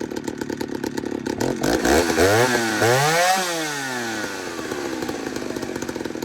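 Ported Stihl 08S two-stroke chainsaw running just after a cold start: idling, revved up twice in quick succession about one and a half to three and a half seconds in, then settling back to a steady idle as it warms up.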